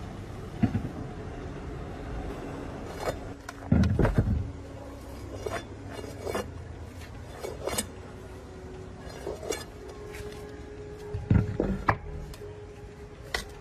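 Irregular metal knocks and clinks from hand work on a truck's rear axle, the heaviest knocks about four seconds in and near the end, over faint background music.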